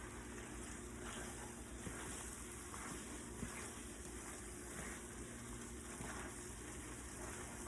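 Food sizzling steadily in a hot pan, with a few faint ticks.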